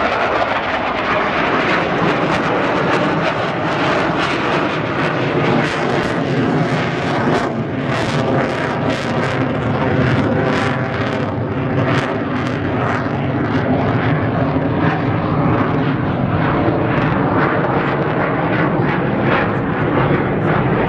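Aerobatic display jets flying overhead: loud, steady engine noise. From about six seconds in, a rapid crackle runs through it.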